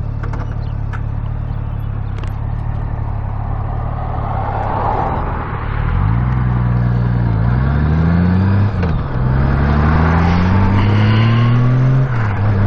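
2015 Honda Gold Wing F6B's flat-six engine running at a steady low note, then pulling away about six seconds in, its pitch rising through the gears with two upshifts.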